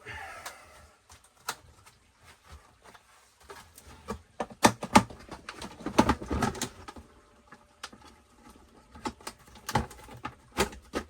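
Irregular sharp clicks and knocks, a few at a time, loudest about halfway through and again near the end.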